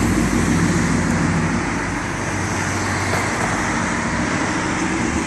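Steady rush of wind and road noise while riding along a road, with a low engine hum that fades about two seconds in.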